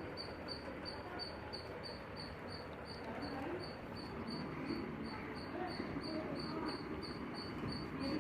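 Insect chirping in a steady rhythm, about three to four short high chirps a second, over a low even background hiss.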